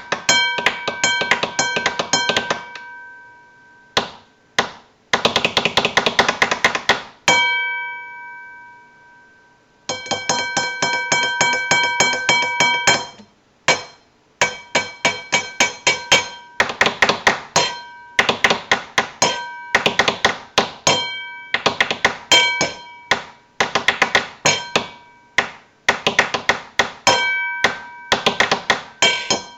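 Experimental noise music: rapid clusters of clattering strikes on something that rings with a few steady bell-like pitches, the ringing holding and fading away in the short pauses between clusters, with one longer pause about a third of the way in.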